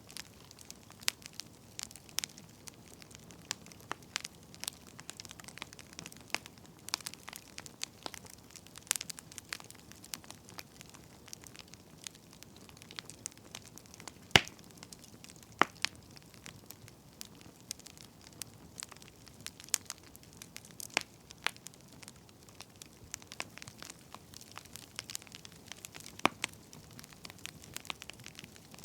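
Burning firewood crackling: irregular sharp pops and snaps over a faint low hiss, the loudest pop about halfway through.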